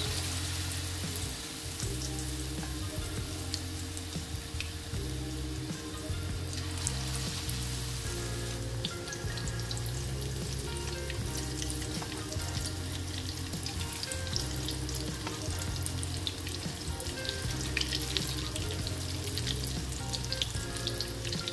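Corn fritter batter deep-frying in hot oil in a wok: a steady sizzle with scattered crackles and pops, flaring up as a spoonful of batter goes into the oil at the start.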